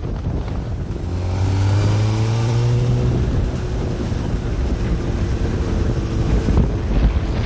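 An engine running, rising in pitch for a couple of seconds and then holding steady.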